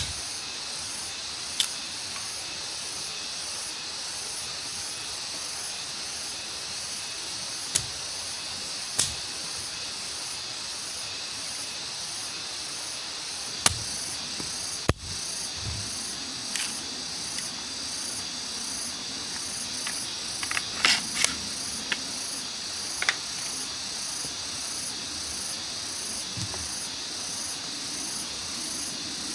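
Forest ambience with a steady, high-pitched insect chorus, broken by scattered sharp clicks and knocks, with a short cluster of them about two-thirds of the way through.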